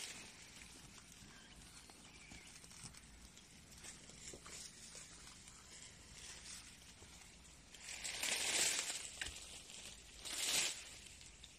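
Faint rustling and crinkling of mist netting and brush being handled, with two louder bursts of rustling, one lasting about a second near eight seconds in and a shorter one about ten and a half seconds in.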